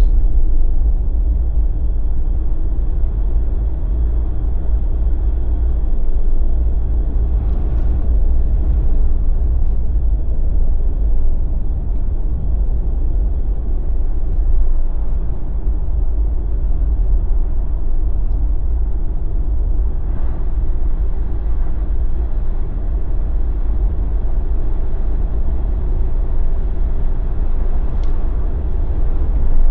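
Jeep on BFGoodrich tyres driving along: a steady low rumble of road and engine noise.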